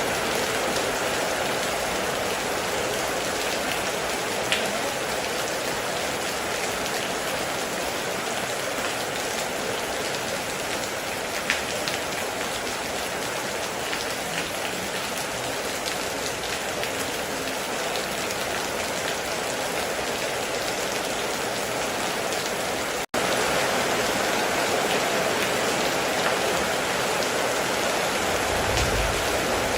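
Steady heavy rain, with a few sharper individual drop hits. The sound cuts out for a split second about two-thirds of the way through, and a short low rumble comes near the end.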